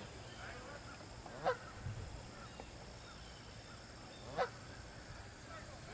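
Geese honking: two short, clear honks about three seconds apart, with fainter calls from other geese between them.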